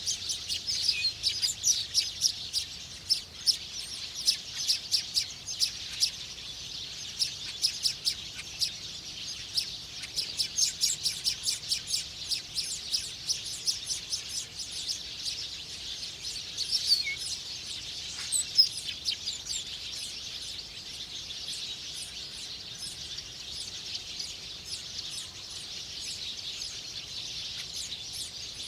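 Small birds chirping, a rapid run of many short high chirps that thins out after about twenty seconds, over a steady high hiss.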